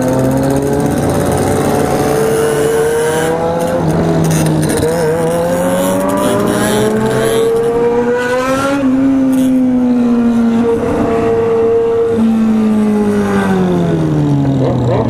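Motorcycle engine under way, its pitch climbing for most of the first nine seconds, then dropping, holding steady for a moment and falling again toward the end as the bike eases off.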